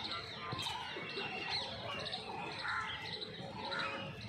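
Several small birds chirping and calling over one another, short repeated chirps and quick sliding notes.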